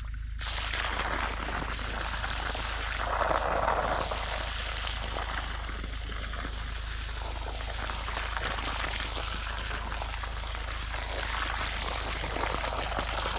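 Water running and pouring in a steady rush, a little louder about three seconds in.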